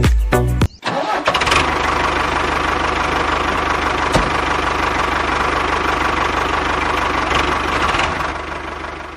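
Music cuts off within the first second. An engine then starts and runs steadily, fading out near the end.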